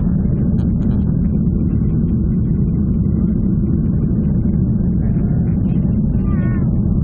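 Steady, loud rumble of a Boeing 737 airliner's engines and airflow heard from inside the passenger cabin, with faint voices near the end.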